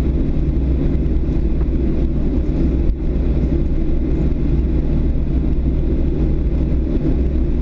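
Steady low rumble inside a Boeing 737 passenger cabin on the ground after landing, with a single light click about three seconds in.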